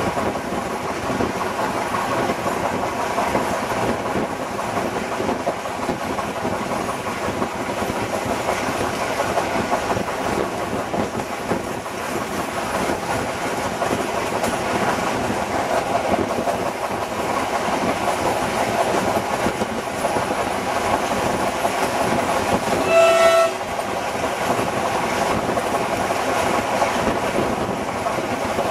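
Steady running noise of a diesel-hauled passenger train heard from an open carriage window, the SP42 diesel locomotive's engine and the wheels on the track. About 23 seconds in, the locomotive's horn gives one short single-tone blast.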